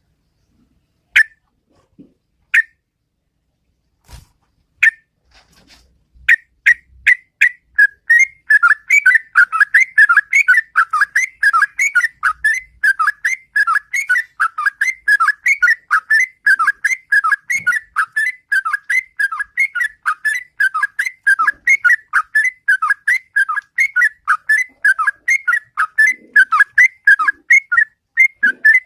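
Yellow-vented bulbul (trucukan) singing. A few single whistled notes come first, then from about six seconds in there is a fast, unbroken run of bubbly notes, several a second: its long 'ropel' song.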